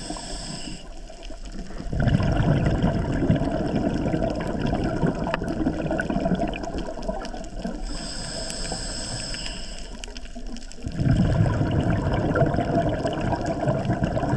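Scuba diver breathing through a regulator underwater: a short hissing inhale, then a long burst of exhaled bubbles rumbling out, and the cycle repeats once more about eight seconds later.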